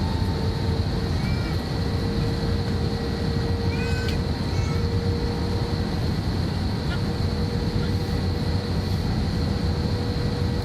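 Airliner during its landing approach: a steady deep rumble of engines and airflow with a steady high whine, and a few brief faint high calls about 1.5 and 4 seconds in.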